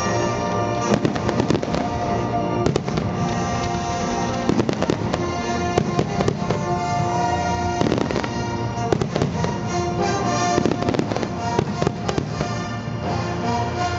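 A fireworks display: shells bursting in quick clusters of sharp bangs and crackles, from about a second in until near the end. Loud music plays underneath throughout.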